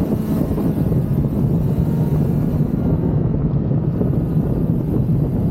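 Motorcycle engine running at a steady cruise, a constant low drone with wind rushing over the microphone.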